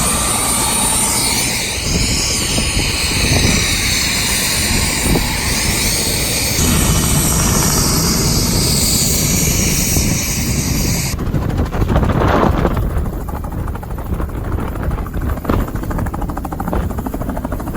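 Helicopter running close by, its rotor and turbine noise steady and loud, with strong rotor downwash blowing across the microphone. The sound changes abruptly about eleven seconds in, then comes as a fast beat of rotor pulses.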